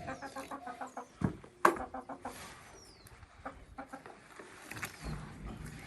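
Hens clucking in a quick run of short notes over the first couple of seconds, with a sharp knock about one and a half seconds in and a few faint high chirps.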